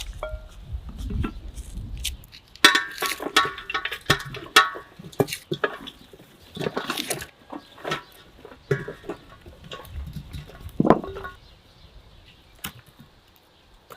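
Irregular clinking and clattering of pots, dishes and utensils during food preparation, a string of sharp knocks, some with a short ringing tone.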